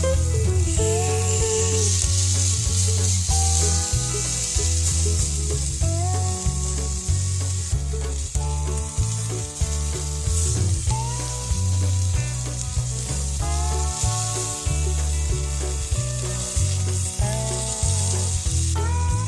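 Lamb sizzling as it grills over a fire pit, under background music with a steady bass pattern and a melody.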